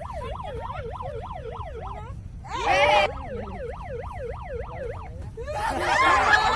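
Electronic yelp-type siren, its pitch rising and falling about three times a second over a steady low rumble. It is cut into briefly by a loud voice about two and a half seconds in, and voices rise over it near the end.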